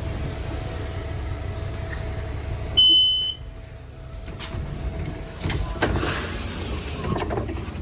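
City bus running with a steady low rumble; about three seconds in a single loud high beep sounds for half a second, after which the rumble drops away.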